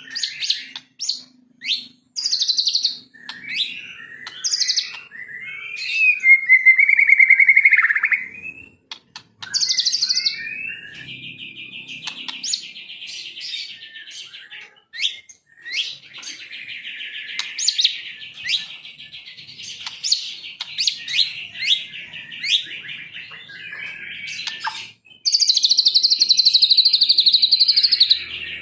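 White-rumped shama singing a varied song: quick whistled and chattering phrases, then a long rapid trill through the middle, and a loud high sustained phrase near the end.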